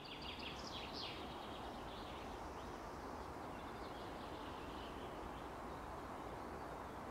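Birds chirping over a steady outdoor hiss, with a busy cluster of chirps in the first second or so, then sparser, fainter ones.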